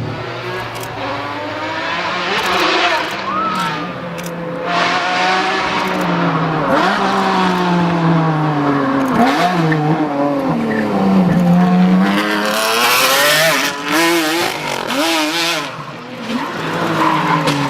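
Car engine revving hard, its pitch sweeping up and down again and again, with tyres squealing.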